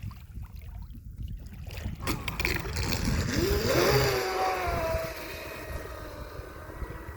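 Electric motor of a Pro Boat Sonicwake V2 RC speed boat whining, rising sharply in pitch as it speeds up about two seconds in, then holding high and fading as it runs off. Wind buffets the microphone throughout.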